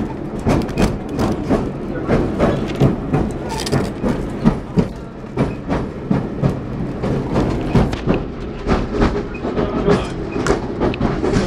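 Hythe pier train's carriage running along the pier: a fast, uneven clatter of wheel clicks and rattling over a steady low rumble.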